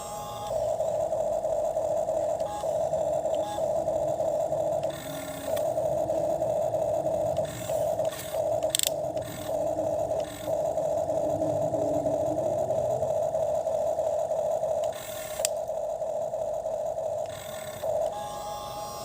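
Small electric motor and gearbox of a toy excavator whining steadily as it digs, cutting out and starting again several times, with a couple of sharp clicks and a brief rising whine near the middle.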